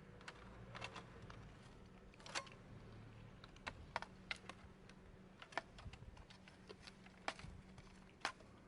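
Wood campfire crackling: irregular sharp pops and snaps, a few louder ones scattered through it, over a faint hum.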